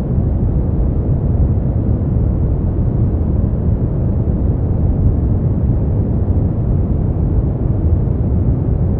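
Steady brown noise: a continuous deep rushing hiss, strongest in the low rumble and fading toward the highs, with no changes or events.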